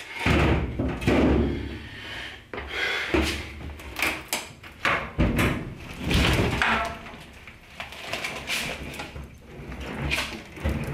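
Irregular knocks, thumps and scrapes of a washing machine being unhooked and moved by hand.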